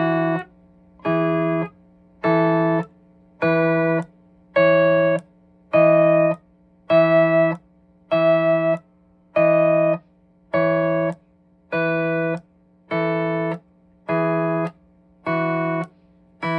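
C6 lap steel guitar playing the E major scale up and back down, each scale note picked together with the open E strings as a drone. The notes come about once a second, each hit straight on the fret without sliding and damped short after about half a second. This is an intonation ear-training exercise.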